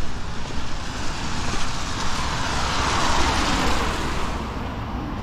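A car passing on a rain-soaked road, its tyres hissing through the wet. The hiss swells to a peak about three seconds in, then fades.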